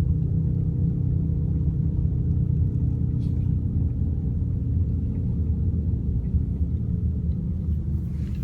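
Worn wheel hub bearing of a BMW E38 humming with a steady low drone while the car is driving: the sign that the bearing is worn out and due for replacement.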